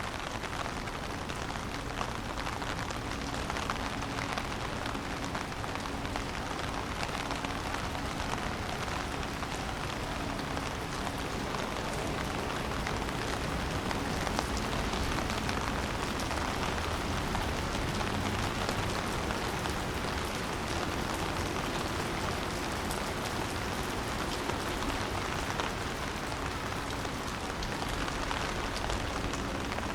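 Steady rain falling, a dense even hiss of drops, with a faint low hum that comes and goes.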